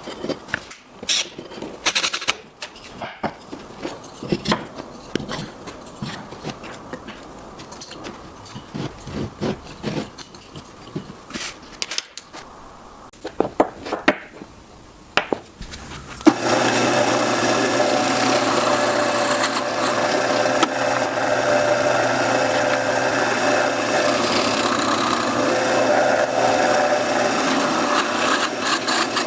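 Irregular clicks and knocks of wood and tools being handled, then about sixteen seconds in a power tool starts and runs steadily against wood.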